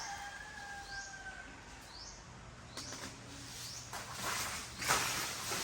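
Birds chirping: a short rising call repeated about once a second, with a held whistle in the first second and a half. Near the end come a couple of brief, louder hissing noises.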